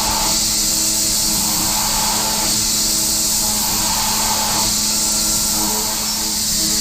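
A CNC vertical machining center milling: the spindle and cutter give a steady, high machining noise with a low hum, and tones that swell and fade every second or two.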